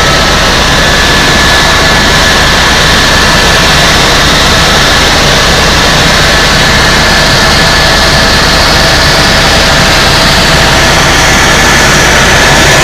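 Tour helicopter in flight, heard from inside the cabin: loud, steady turbine and rotor noise with a thin, constant high whine.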